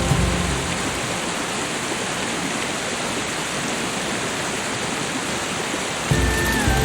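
Steady, even rushing noise of water, the kind heard from heavy rain or a waterfall. Soft music with held tones plays underneath at the very start, drops away, and comes back about six seconds in.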